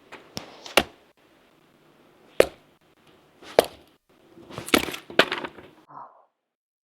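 Firewood being broken up for the campfire: a series of about six sharp wooden cracks at uneven intervals.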